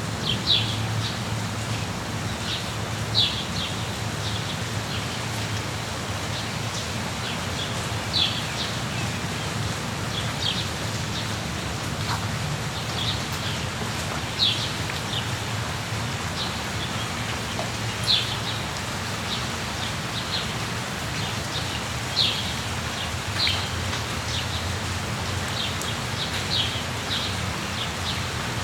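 Steady rain falling, with small birds chirping over it in short, sharp calls every second or two.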